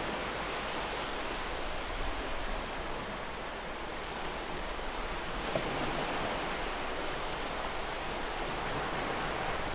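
Ocean surf washing against a shore: a steady rushing hiss that swells slightly about halfway through.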